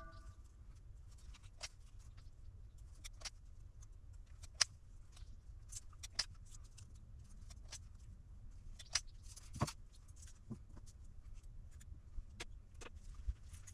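Scattered small, sharp clicks and taps, a dozen or so at irregular intervals, from tools and parts being handled during the repair, over a low steady hum.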